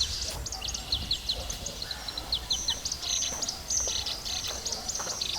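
Several birds chirping, with many quick high chips and rapid runs of short falling notes overlapping one another.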